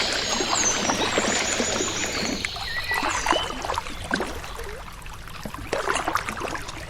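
Water splashing and trickling around a rowed boat, with high chirping calls in the first two seconds. The sound gets gradually quieter toward the end.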